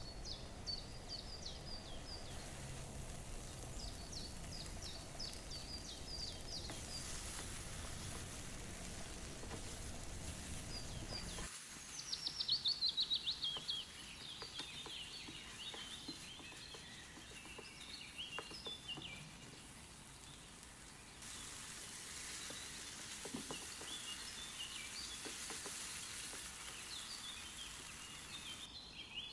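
Small birds chirping and twittering over a steady background hiss, with one loud, fast trill falling in pitch about twelve seconds in. The hiss drops away abruptly just before the trill and returns about twenty-one seconds in.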